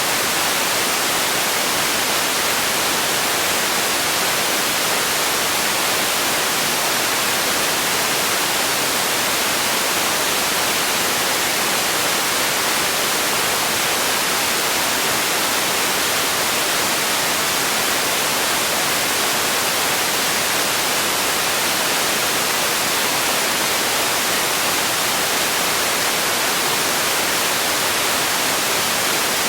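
Steady, unbroken hiss of synthetic noise, even and unchanging, with most of its strength in the upper range and little low rumble.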